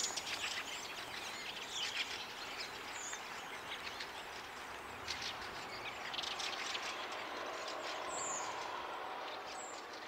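Small birds chirping and calling off and on over a faint steady hiss.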